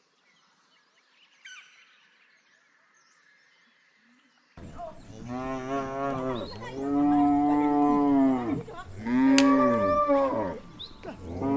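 Cow mooing: after a few quiet seconds, several long, loud moos follow one another.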